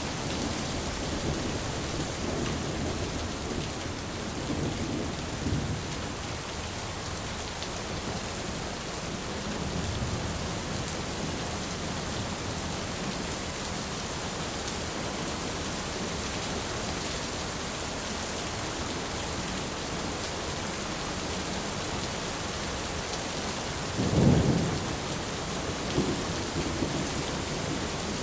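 Thunderstorm: steady rain hissing, with low thunder rumbling now and then and a louder thunder roll near the end.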